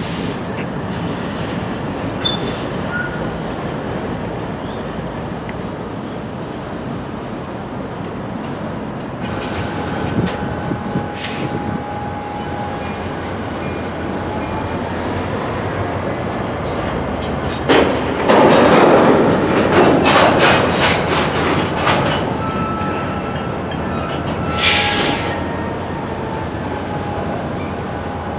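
Freight cars rolling through a rail yard over a steady low rumble, their wheel flanges squealing in thin high tones that hold and glide. About eighteen seconds in comes a run of loud metallic clanks lasting several seconds, and another short burst follows a few seconds later.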